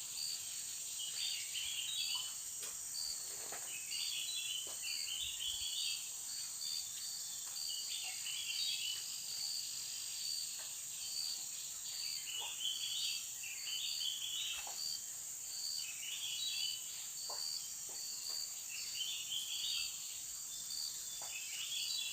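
Chorus of tropical insects: a steady high-pitched drone with a regular pulsing trill, and bursts of chirping calls that repeat every two seconds or so, with a few faint clicks.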